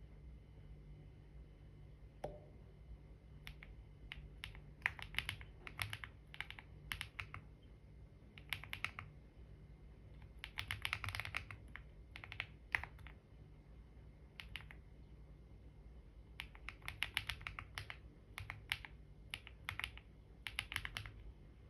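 Typing on a computer keyboard: bursts of rapid key clicks separated by short pauses, over a faint low hum.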